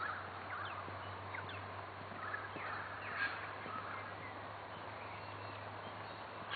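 Wild birds calling, a series of short chirps and quick sliding notes, over a steady low hum.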